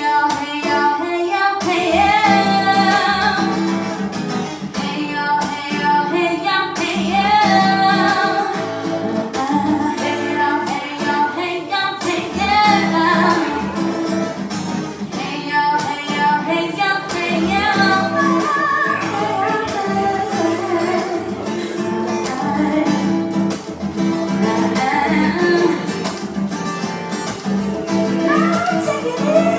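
A song sung over acoustic guitar accompaniment, the voice holding long wavering notes over steady chords.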